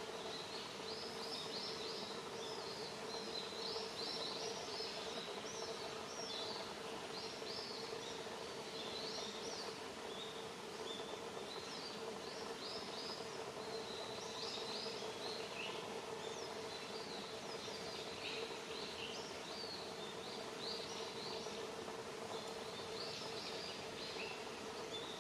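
Small birds calling with many short, high chirps in quick clusters, over a steady outdoor hiss and a low steady hum.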